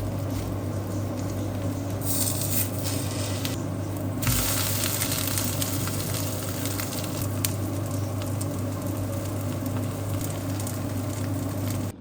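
Kimchi pancake batter sizzling as it fries in hot oil in a pan, over a steady low hum. The sizzle grows louder about four seconds in, then runs steadily.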